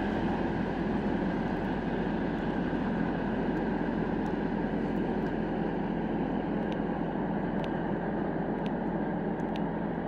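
Steady rolling rumble of a long freight train moving away along the line, with a few faint clicks in the second half.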